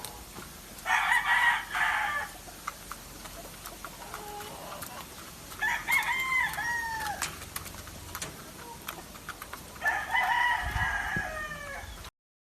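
Gamefowl roosters crowing: three crows a few seconds apart, the last one cut off suddenly near the end.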